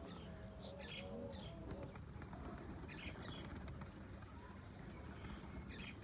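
Pigeons cooing softly, with a few short, high bird chirps over a steady low background rumble.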